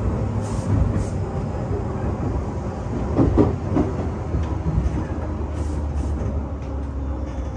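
Inside a moving Tobu Urban Park Line local commuter train: steady rumble of the wheels running on the rails, with a few sharp clacks from the track and a louder stretch about three seconds in.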